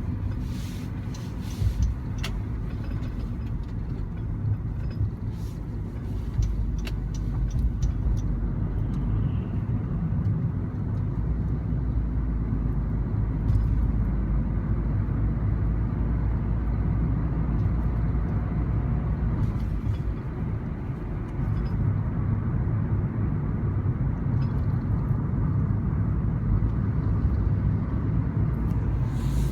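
Cabin noise of a 2013 Honda Civic being driven: a steady low road and engine rumble that swells a few seconds in, with a few light clicks early on.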